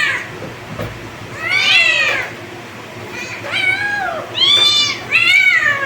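Kittens meowing: a string of high-pitched meows, each rising then falling in pitch, about four or five of them spaced through the few seconds.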